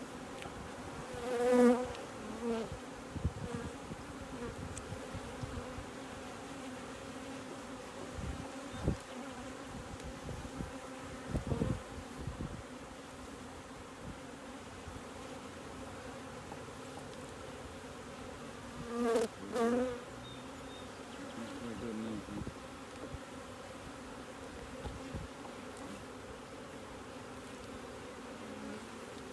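Honeybee colony buzzing as a steady hum from an open hive while its frames are being inspected, with the buzz swelling louder twice as bees fly close by, about a second and a half in and again about nineteen seconds in.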